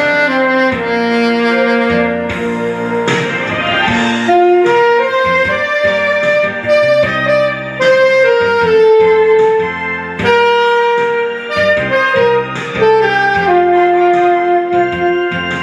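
Saxophone playing a slow ballad melody in long held notes over a backing accompaniment.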